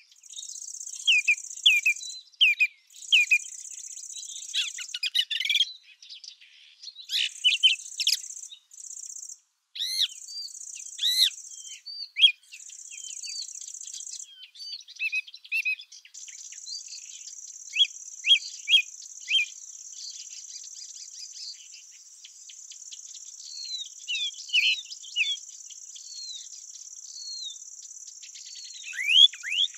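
Field insects, grasshoppers or crickets, stridulating in a high, even buzz that starts and stops in spells of a second or two, then runs on without a break from about halfway. Small birds call over it in quick, sweeping chirps.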